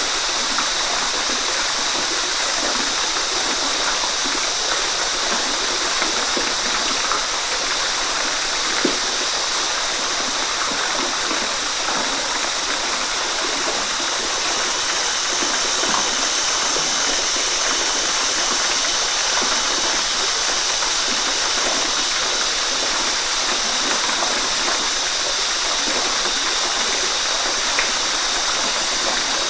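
Waterfall: falling water pouring and splashing in a steady, unbroken rush, with small splashes and gurgles scattered through it.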